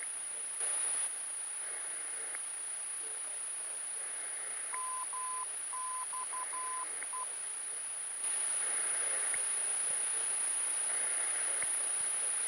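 Aircraft radio receiver hiss in the cockpit audio, with a navigation station's Morse code identifier: a row of short and long beeps at one steady pitch about five seconds in. The hiss grows louder about eight seconds in.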